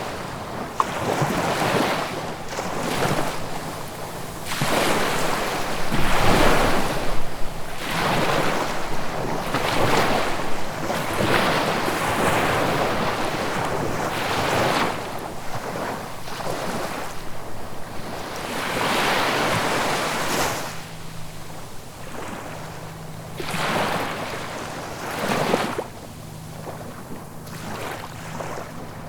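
Ocean surf breaking and washing on the shore in repeated surges a few seconds apart, easing off over the last few seconds.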